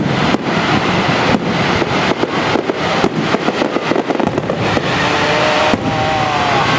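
Aerial fireworks going off in quick succession: a rapid string of sharp bangs and crackles over a dense, continuous rumble. A held pitched tone sounds over them for the last two seconds or so.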